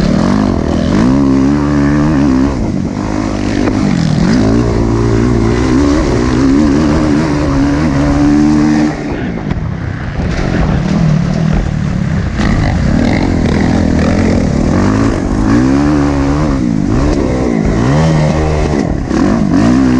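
Motocross dirt bike engines revving hard, their pitch climbing and falling every second or two as they accelerate, shift and back off. There is a brief lull about nine seconds in.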